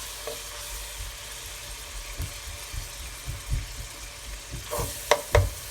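Ground taco meat sizzling in a frying pan, a steady hiss over a low rumble, with a few sharp clicks near the end.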